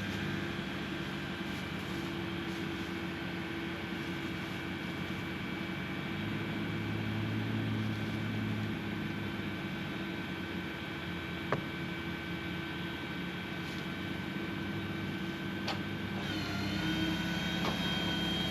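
An engine running steadily with a constant hum, swelling briefly in the low end about a third of the way through. There are a couple of faint clicks near the middle.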